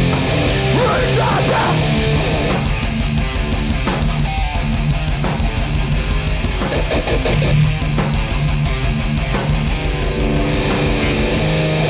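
Hardcore punk band playing live and loud: distorted electric guitars, bass and fast drums, in an instrumental stretch with no vocals.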